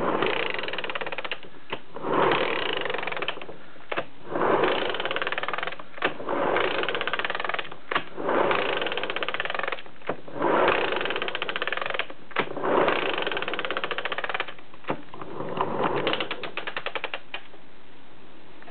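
Honda Cub C100-series engine being turned over again and again, about every two seconds: each time a sharp click, then about a second of rapid mechanical rattling, with quicker fine clicking near the end.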